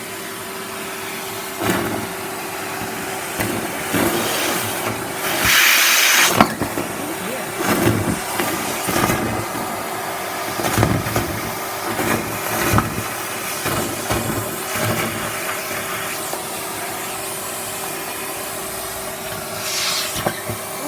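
Henry canister vacuum cleaner running with a steady motor hum, its nozzle sucking up vegetable peelings and debris in irregular rattling surges, with one loud rush of air about five seconds in.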